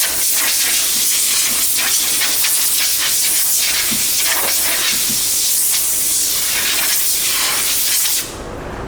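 Compressed-air blow gun hissing steadily as it blows sanding dust off a primed wheel before painting, cutting off near the end.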